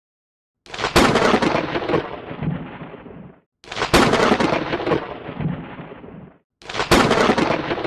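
Three loud bursts of crackling noise, each opening with a sharp crack and dying away over about two and a half seconds, each cut off abruptly into silence before the next.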